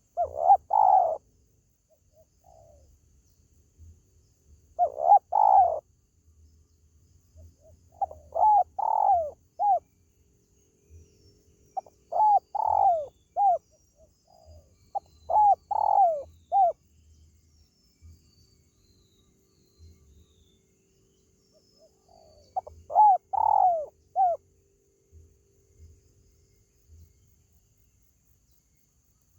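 Spotted dove (tekukur) cooing: six phrases of a few short coos each, a few seconds apart.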